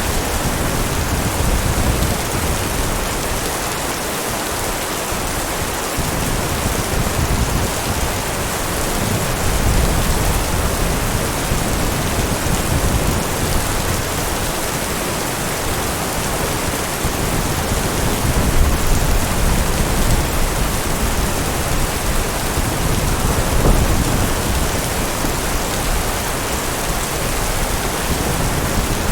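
Steady heavy rain hissing evenly, with low rumbles of distant thunder swelling and fading several times.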